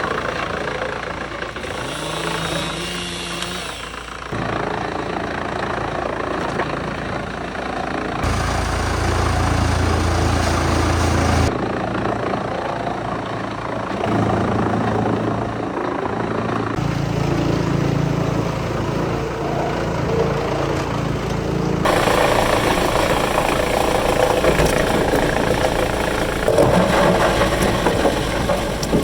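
Wood-chipping machinery running loud and steady, its engine humming under a noisy grind, in a series of short clips whose sound changes abruptly every few seconds.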